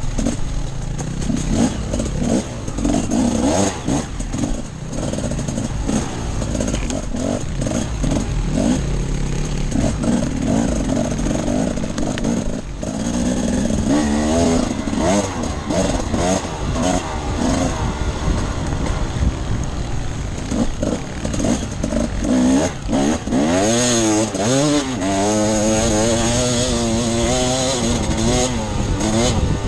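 Enduro motorcycle engine being ridden hard off-road, revving up and down with throttle and gear changes; the pitch rises and falls repeatedly, with quick swoops in the second half.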